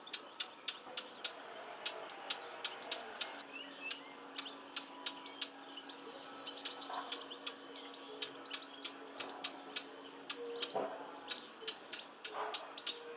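Small garden birds calling: a steady series of short, hard ticks, about three a second, with a few brief high whistled notes over them.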